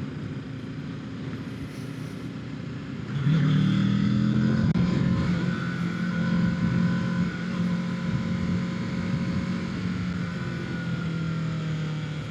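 Kawasaki Ninja 650's parallel-twin engine under way, heard from the rider's helmet. It runs quietly for the first three seconds, then gets suddenly louder as the throttle opens about three seconds in, holds steady revs, and eases off slowly toward the end.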